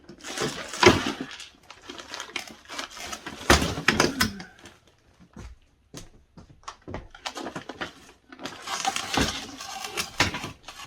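Frozen food packages and plastic freezer bins being handled and lifted out: crinkly rustling of bags mixed with repeated knocks and clatters, loudest about a second in, around four seconds in, and near nine seconds.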